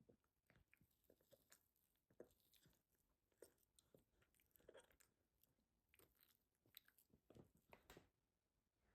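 Near silence, with faint scattered clicks and soft rustles of small things being handled.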